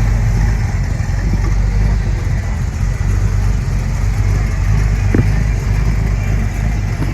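Car engine idling with a steady low rumble, and a brief light tick about five seconds in.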